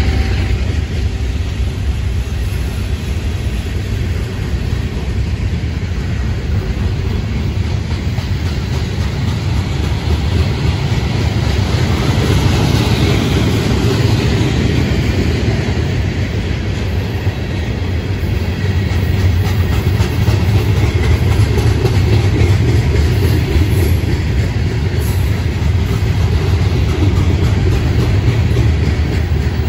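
Freight cars rolling past close by: a mixed string of covered hoppers, tank cars and ballast hoppers, their steel wheels clattering over the rail joints with a steady, loud rumble.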